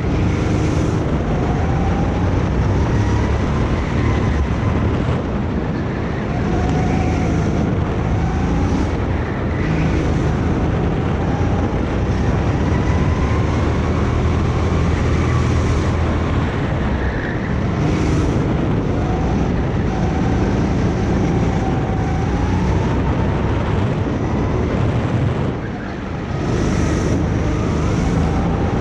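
Kart engine running at speed, its pitch rising and falling with the throttle lap after lap; it drops back briefly near the end before picking up again.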